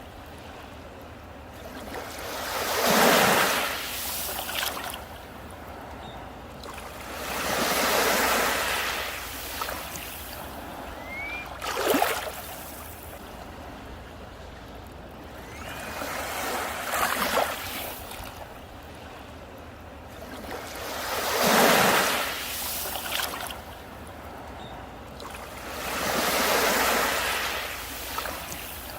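Sea waves breaking on a beach and washing back, a swell of surf every four to five seconds with quieter rushing between, and a couple of sharper splashes in between the main breakers.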